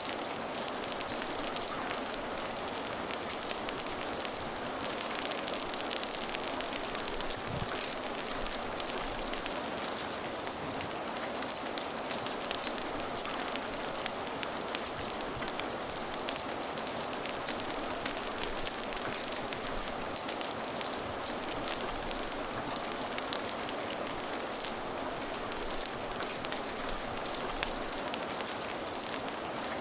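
Steady rain falling, mixed with the crackle of a fire, many small pops and snaps over an even hiss.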